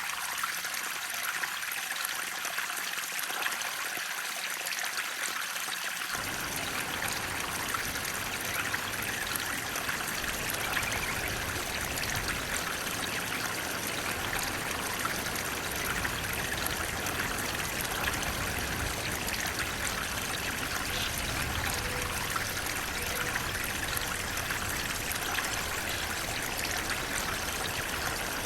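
Flowing water running steadily, an even rushing hiss; a deeper low rush fills in about six seconds in.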